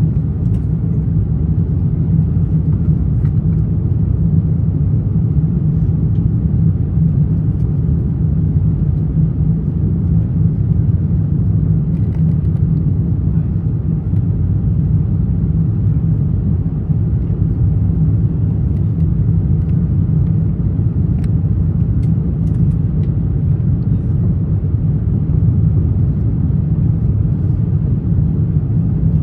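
Steady low rumble of an Airbus A350-900 cabin in flight: engine and airflow noise heard from inside the economy cabin, with a few faint clicks.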